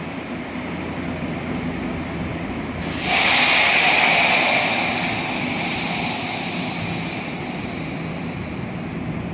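Nishitetsu electric train at the station platform with a steady running hum. About three seconds in, a sudden loud hiss of released compressed air, typical of a train's air brakes or door equipment, bursts out and fades away over a few seconds.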